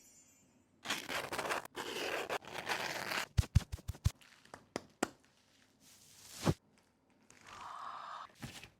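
Makeup packaging being handled and opened: card and plastic sliding and tearing, then a quick run of sharp clicks and knocks. There is a single heavier thunk about two-thirds of the way in, and more rustling near the end.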